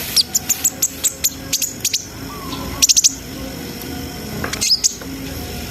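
Kolibri ninja (konin), a sunbird, singing a rapid run of sharp, high-pitched chirps and ticks, with a quick cluster of calls about three seconds in.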